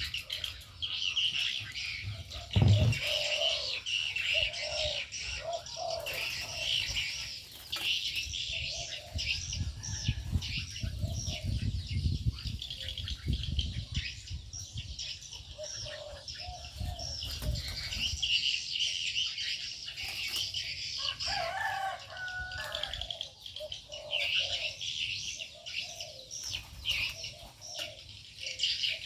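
A mixed flock of aviary birds chirping together, with shorter, lower calls mixed in and wings flapping. A thump comes about three seconds in, and a low rumble runs through the middle stretch.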